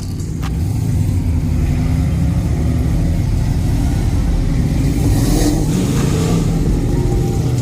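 A car engine running with a loud, low rumble. It builds over the first second and then holds steady.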